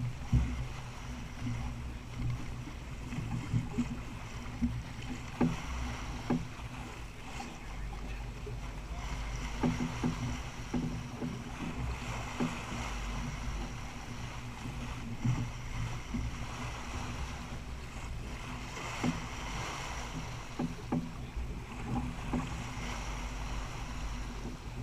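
Sailboat underway: water rushing and swelling along the hull over a steady low hum, with scattered light knocks.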